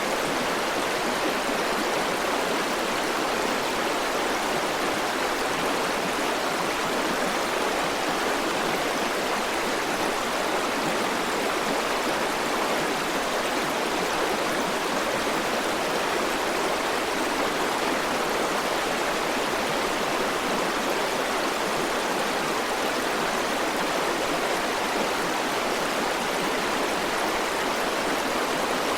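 River water flowing over rocks, a steady rushing and babbling with no breaks or changes.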